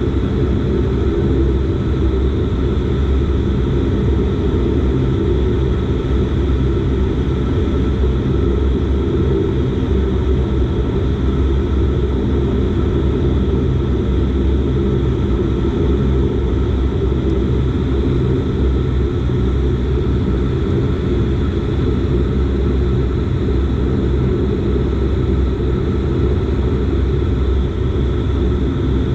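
Dash 8 Q400 turboprop engines and propellers running steadily: a low rumble with a few constant higher tones, holding the same power throughout.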